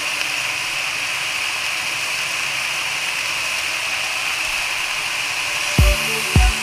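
Chicken pieces frying in oil in a wok, giving a steady sizzling hiss. Music with a deep beat comes back in near the end.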